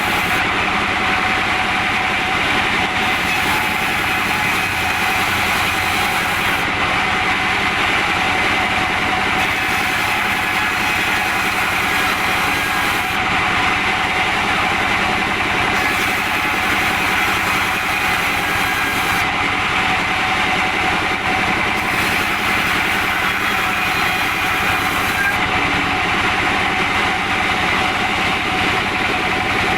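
Sawmill machinery running steadily: a saw and its drive engine keep up a loud, constant mechanical drone with a steady whine, without pause or change in speed.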